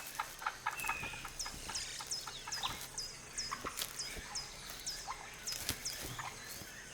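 Chestnut-headed oropendolas calling at their nesting colony: a dry, clucking chatter of quick clicks, mixed with many short, high whistled notes that drop in pitch.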